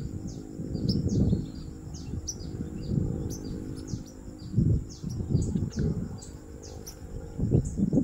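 Small songbird chirping: many short, high, falling chirps, several a second, with no break. Underneath are low, uneven bursts of rustling and bumping from the branch and leaves being handled, loudest near the middle and again near the end.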